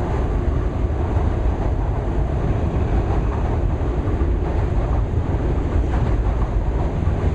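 Wind buffeting the microphone: a loud, steady low rumble without a break.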